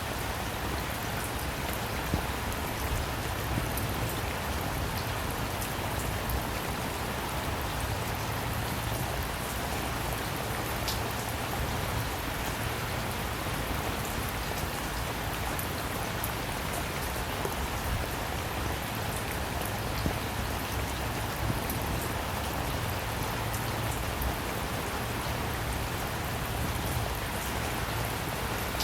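Steady rain falling on a surface, with scattered individual drops ticking and a low steady rumble underneath.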